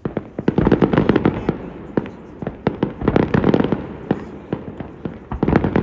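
Fireworks display: a rapid, dense barrage of bangs and crackles over a rumbling background, with louder clusters of bangs about half a second in, around the middle and near the end.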